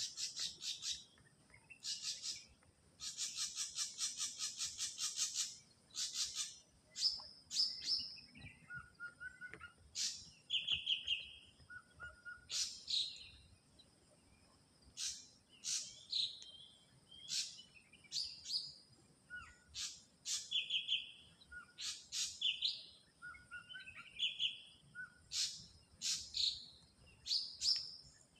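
Ashy drongo singing: fast chattering runs of repeated notes in the first few seconds, then a varied string of short sharp calls, downward-sweeping notes, low whistles and brief buzzy phrases about once a second.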